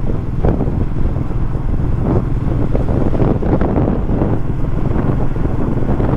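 Royal Enfield Meteor 350's single-cylinder engine running steadily while the motorcycle is ridden, with wind buffeting the microphone.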